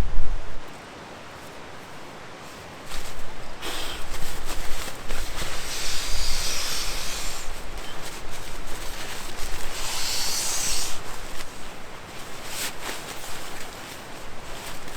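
Rustling and rubbing of fabric or camp gear being handled, in irregular spurts that grow louder about 6 and 10 seconds in. Low wind rumble on the microphone at the start.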